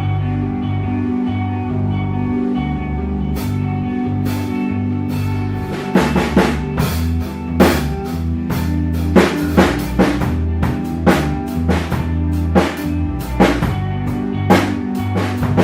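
Ambient rock with sustained guitar and bass, and a drum kit played along with it in a drum cover. A few scattered drum and cymbal hits come in about three seconds in, and from about six seconds the kit settles into a steady beat with bass drum and snare.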